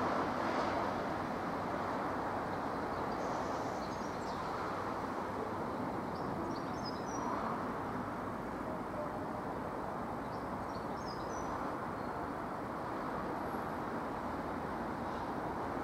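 Steady outdoor rumble at a constant level, with a small bird chirping in short clusters of quick high notes three times.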